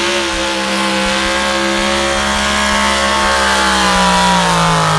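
A tractor-pull competition vehicle's engine running hard and loud under load. Its pitch holds steady, then sags a little near the end.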